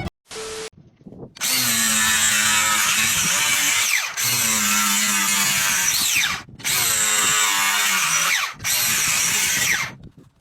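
A power tool, like a drill, running in four bursts of a few seconds each. Each burst holds a steady pitch and is cut by short pauses.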